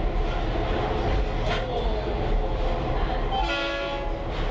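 Caboose rolling along behind a diesel locomotive: steady low rumble and rattle of the wheels on the track, with a short horn blast from the locomotive about three and a half seconds in.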